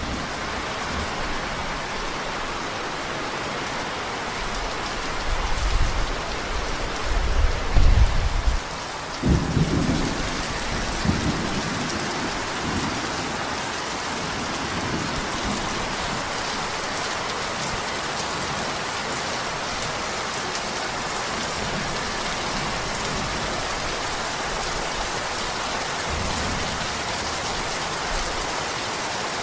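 Steady rain with thunder rolling in: low rumbles build from about five seconds in, loudest around eight seconds, with another rumble just after nine seconds and a faint one near the end.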